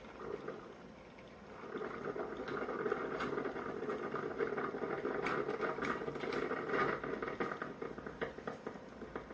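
BLACK+DECKER CM618C single-serve coffee maker brewing: hot water bubbling and sputtering through into the cup, with many small irregular pops. It gets louder about a second and a half in.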